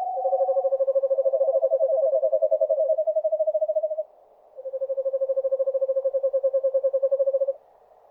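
Eastern screech owls giving long trills of rapid, evenly spaced notes held at a level pitch, two trills at slightly different pitches overlapping. The trills break off briefly about four seconds in, then one resumes for about three seconds.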